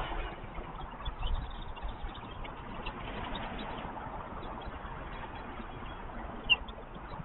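Outdoor nest-camera ambience: a steady background rumble and hiss with scattered faint high chirps, and one sharp click about six and a half seconds in.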